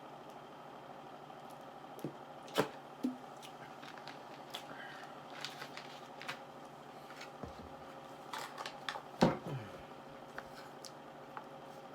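Close-up eating sounds of chicken Alfredo pasta: scattered soft clicks, taps and wet mouth noises over a steady low hum, with a sharper knock about nine seconds in.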